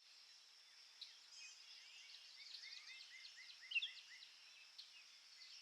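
Faint twittering of small birds: many short chirps and quick calls, with a run of short repeated notes about three a second in the middle and a louder chirp a little after it.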